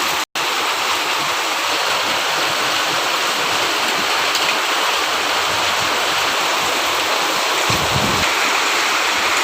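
Heavy rain pouring down steadily, a dense even hiss of falling water, with a momentary break just after the start.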